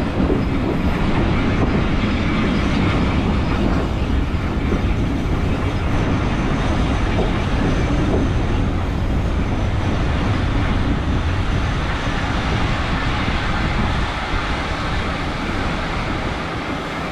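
Steam train running along the track, heard from aboard a carriage: a steady rumble of wheels and running noise that eases off slightly near the end.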